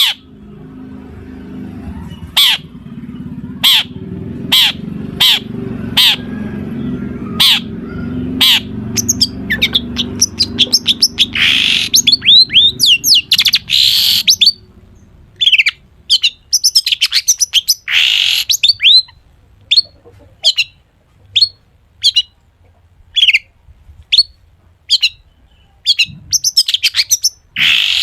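Long-tailed shrike singing a mimicry-filled song: a string of sharp, evenly spaced calls gives way to louder, harsher sweeping phrases, then short calls again.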